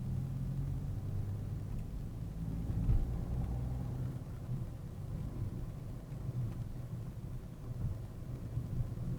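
Car engine and road noise heard from inside the cabin while driving: a steady low drone with engine tones that shift slightly, and a brief louder thump about three seconds in.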